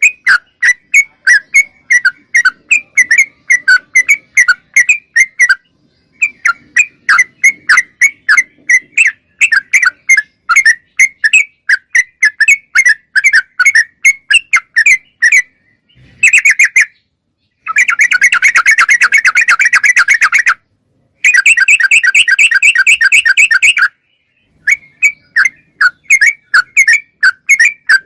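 Yellow-vented bulbul (trucukan) calling: a long run of quick, bright chirps, about three a second, broken by short pauses. Midway there are two dense chattering trills of about three seconds each.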